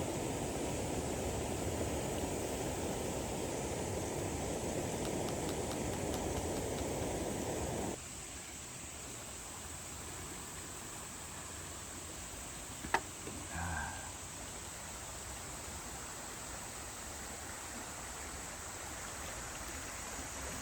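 Small BRS canister backpacking stove burning with a steady low rushing hiss, which cuts off suddenly about eight seconds in. A few seconds later comes a single sharp click, then a brief light clink.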